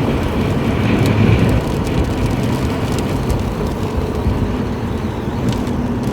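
Steady road and engine rumble inside a moving car's cabin, with a few faint ticks.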